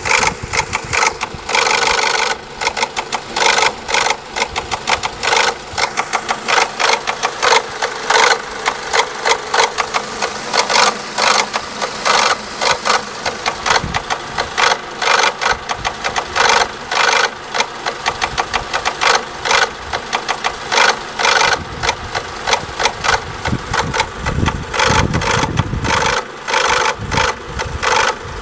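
Renault Laguna II 1.8 16V (F4P) petrol engine running with a constant, fast, uneven tapping from the top of the engine. The owner puts the tapping down to a faulty tappet or a faulty camshaft dephaser.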